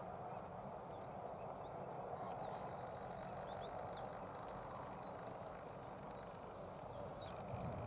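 Faint songbird chirps scattered throughout, with a short rapid trill a little over two seconds in, over a steady background hiss.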